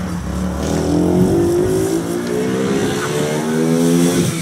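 Small car engine accelerating through the gears: its pitch climbs steadily for about three seconds, then drops near the end at a gear change.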